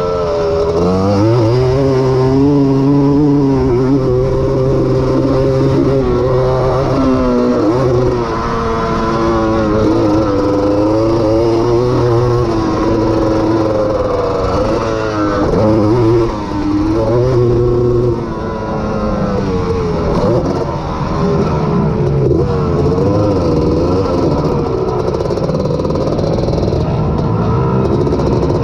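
Honda ATC250R three-wheeler's two-stroke single-cylinder engine racing on a motocross track, its pitch rising and falling over and over as the throttle is opened and rolled off through jumps and corners.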